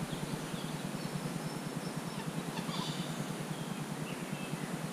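Faint, scattered bird calls over a steady low background rumble.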